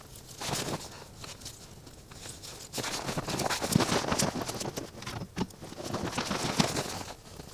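Wood campfire crackling, with sharp pops scattered throughout. From about three seconds in, a louder stretch of dense crunching and rustling joins it for roughly four seconds.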